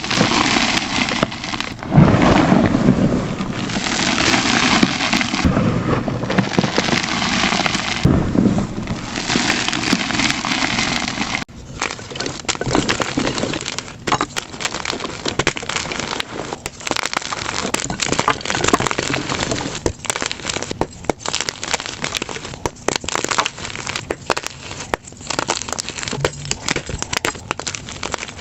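Blocks of plain gym chalk crushed by hand: a dense, continuous crunching and crumbling, which changes about eleven seconds in to a sparser run of sharp crackles and crunches, played back at double speed.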